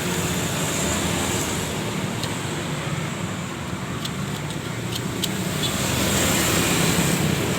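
Steady road-traffic noise, with a few light clicks between about two and five seconds in.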